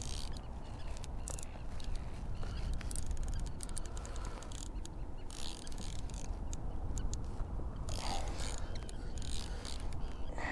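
Fishing reel being wound in against a hooked fish, its mechanism clicking and ratcheting, over a steady low rumble.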